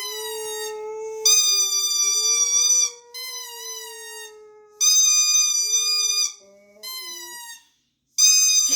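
Boxer dog howling in one long, slightly wavering howl while a rubber duck squeaky toy squeals loudly over it three times. The howl trails off about a second before the end, and the last squeal starts just before the end.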